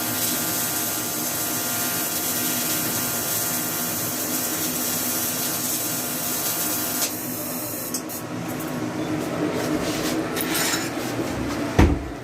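A small power tool's motor runs steadily with a high whine and stops abruptly about seven seconds in. Scattered knocks and a short thump follow near the end.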